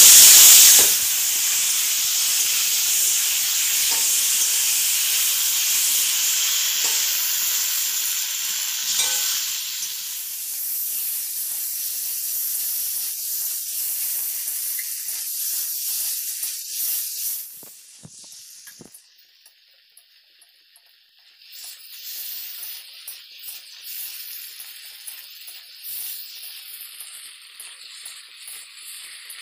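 Raw chicken pieces sizzling in hot oil and fried spice paste in a steel karahi, stirred with a metal spatula. The sizzle is loudest at first and weakens through the middle with light scraping ticks. It drops almost away at about eighteen seconds, then returns quieter.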